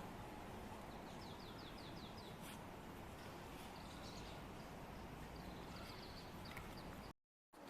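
Faint outdoor ambience with a steady low hiss. A small bird calls a quick run of about seven short falling notes a second or so in, then gives a few more brief chirps later on.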